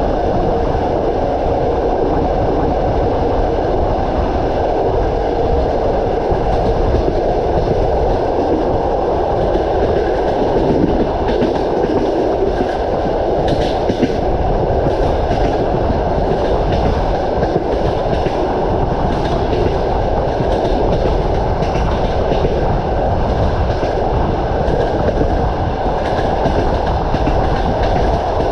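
A passenger train running, with a steady rumble and its wheels clacking over the rail joints in repeated clusters of clicks.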